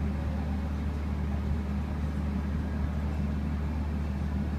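A steady low hum, even in level throughout.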